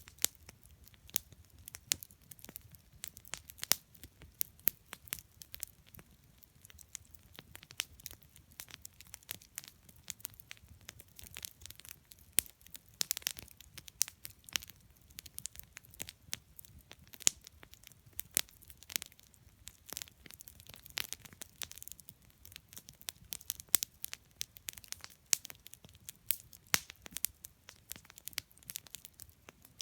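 Wood campfire burning, with irregular sharp crackles and pops from the burning wood over a soft low rumble of flame.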